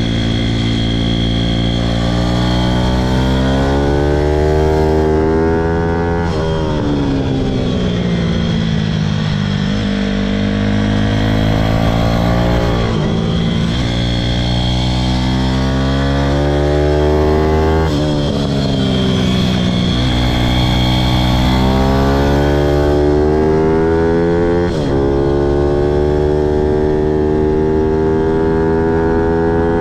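Pit bike's single-cylinder engine at full throttle around a track. The pitch climbs through the revs, then drops sharply about four times as the rider shuts off for corners and gears change.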